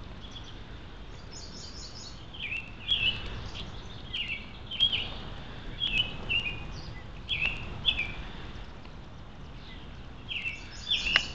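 Birds calling: a short, repeated chirpy phrase every second or so, with a quick run of high notes about a second in and again near the end, over steady low background noise.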